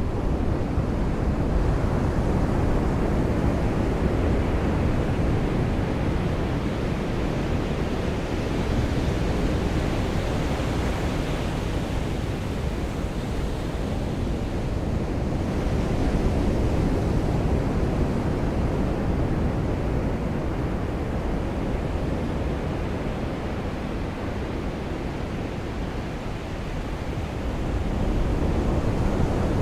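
Ocean surf and rain: a steady, deep rushing noise that swells and eases slowly over several seconds.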